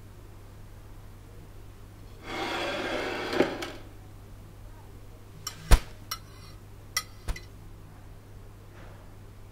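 A plate slid across a wooden tabletop for about a second and a half, ending in a knock, then a few sharp knocks and taps over a low steady hum.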